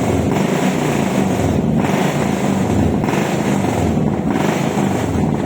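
A vehicle engine running steadily and loudly, with some rougher noise over it.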